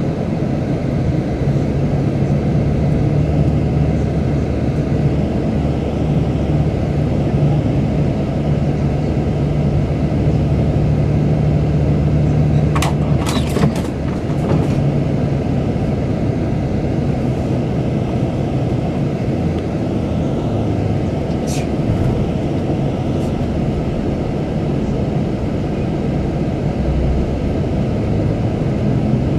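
Cabin noise of a Scania K400 double-decker coach under way: a steady engine drone over road noise. The engine note drops about halfway through, and a few sharp clicks or rattles come around then, with a couple more a little later.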